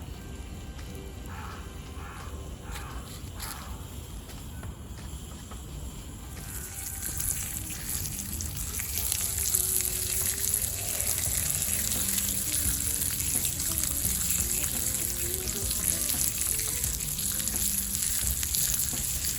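Food sizzling in a pan over a wood fire on a mesh fire pit's trivet. The sizzling comes in about six seconds in, grows louder and then holds steady.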